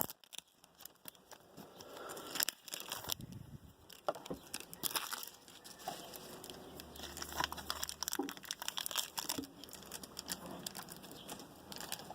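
Trading-card pack wrappers crinkling and tearing as packs are opened, with irregular rustles and clicks.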